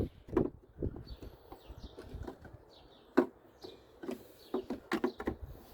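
A few sharp clicks and knocks from hand work on a car's rear light parts: one loud knock about three seconds in and a quick cluster near the end. Faint bird chirps sound in the background.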